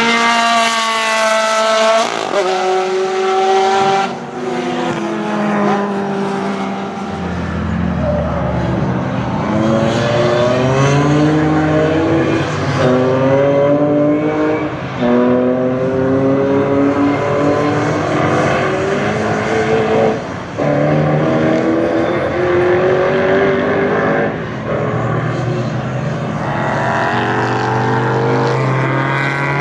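Racing car engines at full throttle, one after another, each note climbing in pitch and dropping back with every upshift.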